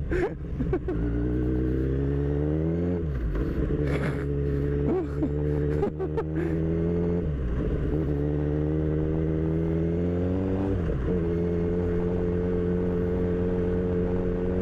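Kawasaki Z1000's inline-four engine pulling under acceleration, its pitch climbing steadily and dropping sharply with an upshift about three seconds in and another near eleven seconds, then holding a steady cruise.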